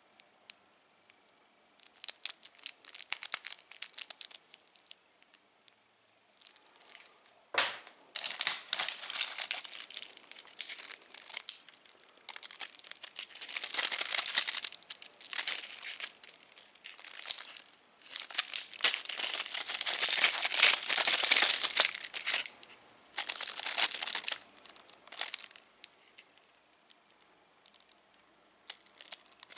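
Plastic candy wrappers being crinkled and torn open, in bursts of rustling with short pauses. There is a sharp click about seven and a half seconds in, and the crinkling is loudest past the middle.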